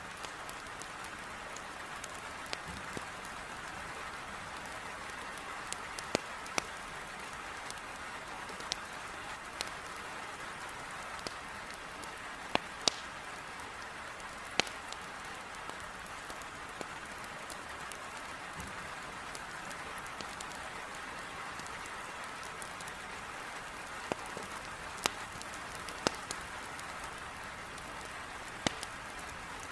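Heavy rain beating steadily against a window, with sharp, irregular crackles and pops from burning firewood in a fireplace.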